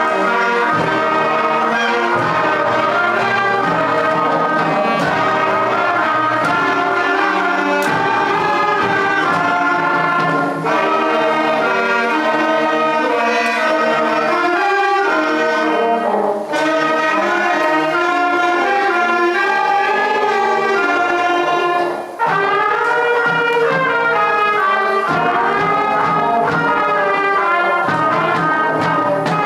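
Upper primary school concert band playing a piece, with brass prominent over the ensemble, continuous with a few brief breaks between phrases.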